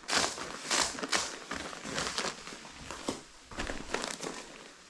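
Sticky carpet-protection film being handled and pressed down, with an irregular run of crinkling and crackling.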